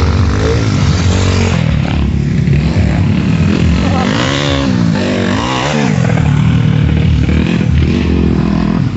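Enduro dirt bike engines revving, the pitch rising and falling several times, most sharply about halfway through.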